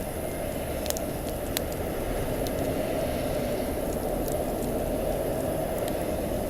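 Wood campfire burning with a steady hiss and rumble, and a few sharp crackling pops from the burning wood.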